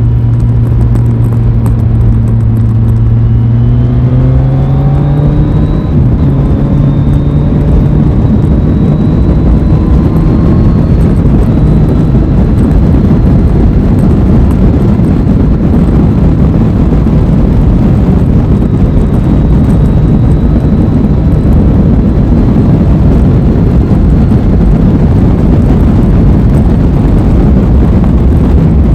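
Aprilia Tuono 660's parallel-twin engine under way: it holds a steady note for about three seconds, then rises in pitch as the bike accelerates, and settles into a steady cruise under a loud rushing noise.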